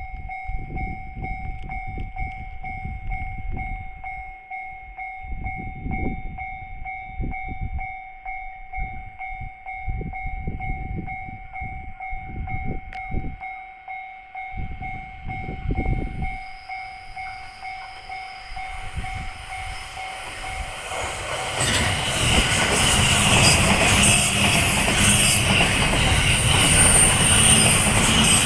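Japanese level-crossing warning bell ringing steadily in two tones over irregular low rumbles. Then, about 21 seconds in, a JR East E235-1000 series electric commuter train passes loudly, its wheels running through a curve.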